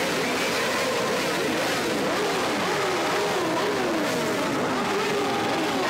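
A group of motorcycles running and revving together, many engine pitches rising and falling over one another.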